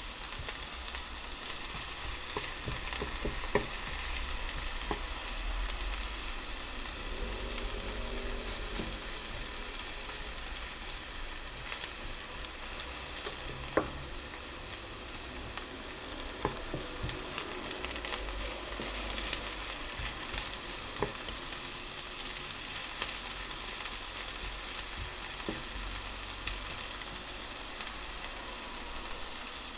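Food sizzling steadily in a hot frying pan as it is stirred, with scattered sharp clicks of a utensil against the pan, the loudest about three and a half seconds in and again near fourteen seconds.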